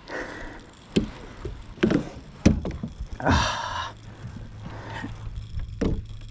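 Irregular knocks and thumps on a kayak, about four of them, with a short rustling, splashy burst in the middle, as a freshly landed bass is handled aboard.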